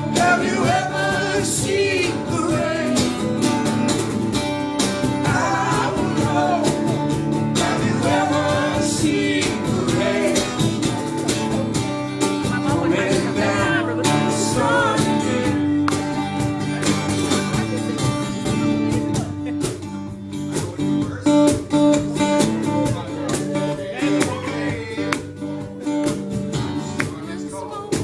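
Live band music in a country-rock style: guitars and a steady bass line under a sung or played lead melody.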